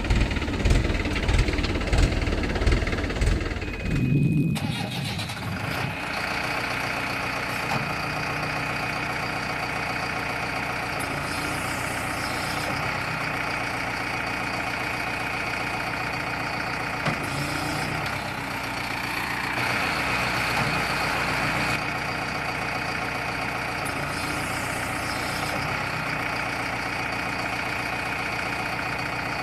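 Engine running steadily. About four seconds in, a heavier, pulsing engine sound cuts off and a smoother, steady running sound with a constant high whine takes over.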